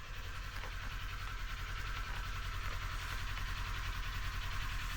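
Kawasaki Z400 parallel-twin engine idling steadily once warmed up.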